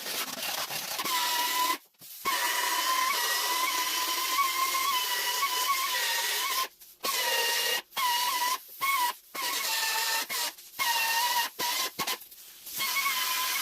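A tool or machine running with a steady hiss and a slightly wavering high whine, cutting off abruptly for short moments several times and starting again.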